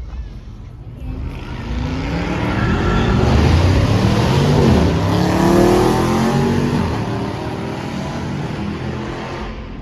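Car engine accelerating hard as it passes, its pitch climbing and then dropping, growing loud midway and fading toward the end.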